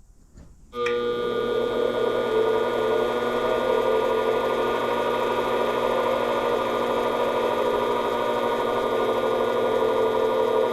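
Metal lathe switched on about a second in, its motor and gearing then running steadily with a hum and a whine of several fixed tones, spinning without cutting yet.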